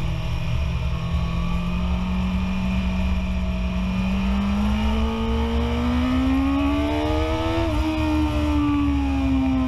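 BMW S1000RR superbike's inline-four engine running in second gear, heard onboard: its note holds steady, then rises as the bike accelerates hard from about halfway through, and eases off near the end as the throttle is rolled back. Low wind rumble underneath.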